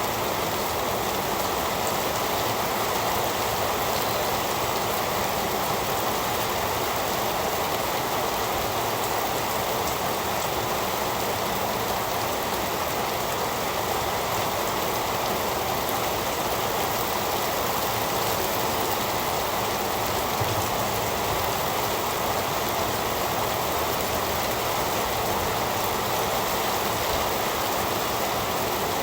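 Heavy rain falling steadily, a dense even hiss with no thunder or let-up.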